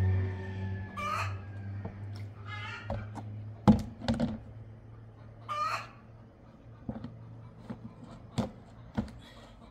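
A few short bird calls over a steady low hum, with several sharp knocks, the loudest a little past a third of the way in.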